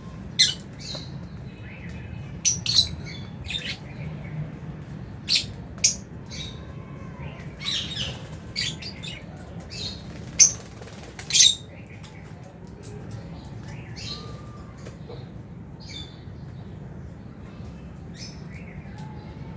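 Aviary lovebirds giving short, shrill squawks and chirps at irregular intervals, the loudest two a little past halfway, over a steady low background hum.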